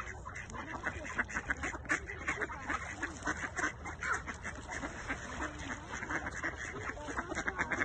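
A group of ducks quacking, many short calls packed closely together and overlapping throughout, as they gather for bread.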